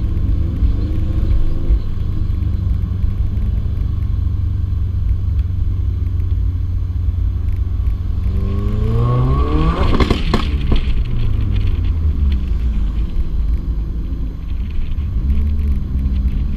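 2015 Subaru WRX's turbocharged 2.0-litre flat-four with a stage one tune and full exhaust deletes, idling with a deep rumble. About halfway through, one rev rises quickly to a peak, with a few sharp pops at the top, then drops back to idle. A smaller blip comes near the end.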